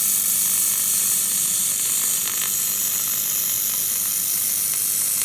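Handheld laser welding machine running: a steady high hiss with a faint hum underneath and a few faint ticks about two seconds in.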